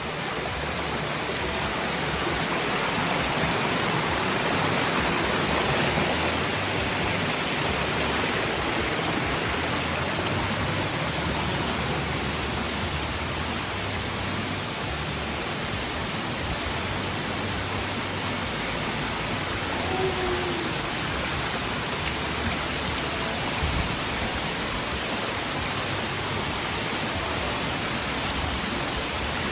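Waterfall pouring down inside a cave, a steady rushing of falling water.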